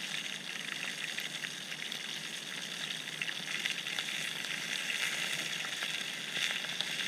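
Chicken wings and potato chunks frying in a small pan over a campfire: a steady sizzle, with a few faint ticks of a knife slicing carrot over the pan.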